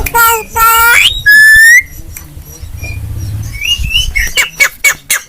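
Javan myna calling: harsh squawks, then a loud rising whistle, then, near the end, a rapid run of sharp clicking notes at about four a second.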